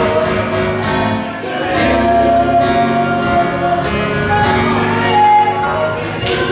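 Gospel music from a choir singing with instrumental accompaniment, in long held notes.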